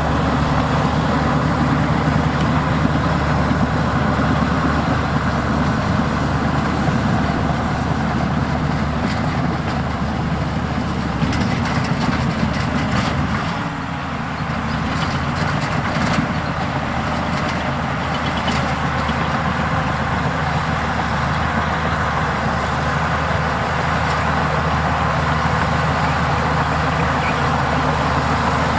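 Heavy diesel engines of earthmoving machinery, a bulldozer and dump trucks, running steadily under work. The level dips briefly about halfway, and a scatter of clanks comes through in the middle stretch.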